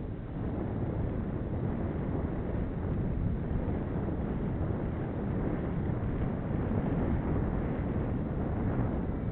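Steady wind buffeting the microphone of a camera riding on a moving bicycle: a continuous low rumble with no breaks.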